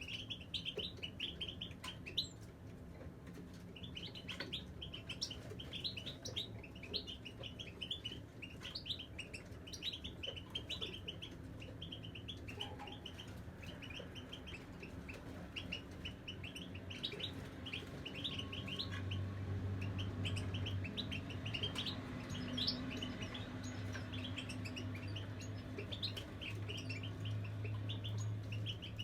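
European goldfinches singing, a continuous run of rapid twittering chirps. A low steady hum joins about two-thirds of the way in.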